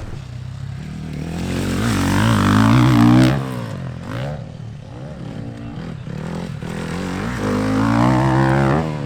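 Youth motocross bikes revving as they ride past, in two passes: the engine note builds to a peak about three seconds in and again near the end, each time dropping away quickly.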